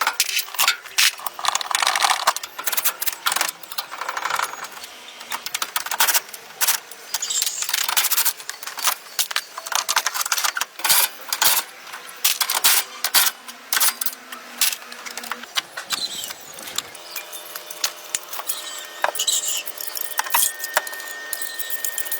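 Irregular clicking and clinking of small hard objects, thickest in the first half, with a faint steady tone joining near the end.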